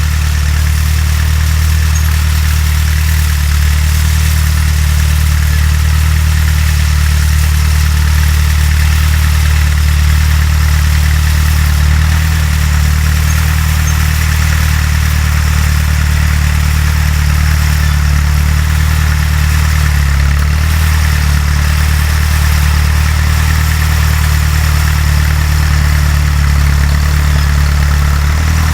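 Fiat 352c tractor engine running at a steady speed, a low even drone that holds the same pitch throughout.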